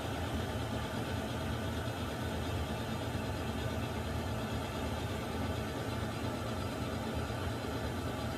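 Water heater running: a steady, unbroken rushing hum with its weight in the low end.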